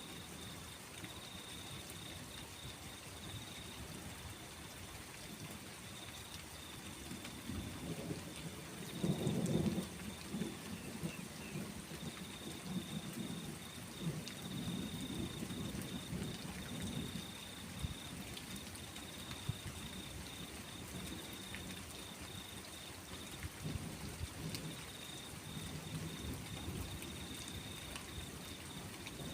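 Steady rain with low rolling thunder rumbling several times; the loudest roll comes about nine seconds in. A steady high-pitched trill sits above the rain.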